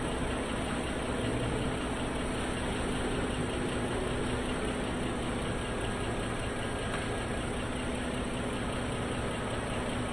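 Lexus ES300's V6 engine idling steadily.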